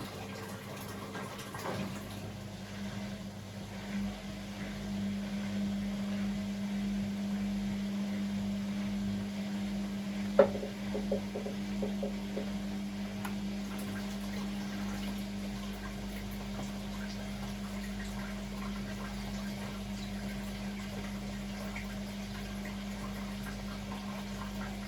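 Beko WML 71433 NP washing machine with water running into or through it and a steady hum under the water, with a single sharp click about ten seconds in.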